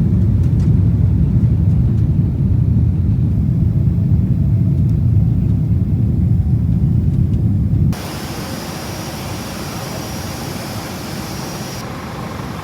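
Loud, steady low rumble of a jet airliner heard from inside the cabin. About eight seconds in, it cuts abruptly to a quieter, even hiss with a faint high whine.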